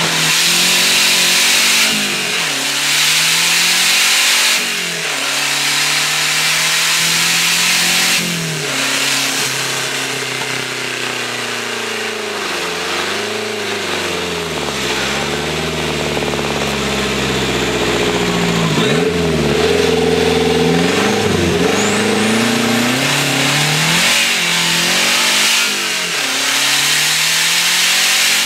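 Fiat 127's turbocharged Lancia 2.0 16V four-cylinder engine accelerating hard through the gears, its pitch climbing and then dropping at each shift about two, four and a half and eight seconds in. After that the revs rise and fall repeatedly, with a strong hiss over the engine note.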